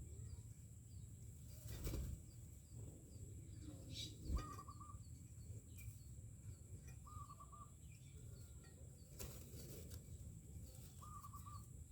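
Myna birds calling quietly: a short, wavering call repeated three times, about three seconds apart, over faint high chirps. A few brief rustles come between the calls.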